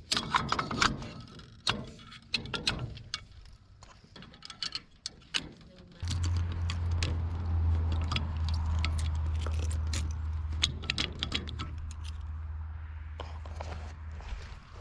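Refuelling: metallic clicks and clanks of handling fuel gear. About six seconds in a motor starts with a steady low hum, runs for about seven seconds, then eases off.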